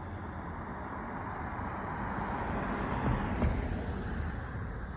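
A car passing by on the road: its tyre and engine noise swells to a peak a little past the middle, then fades.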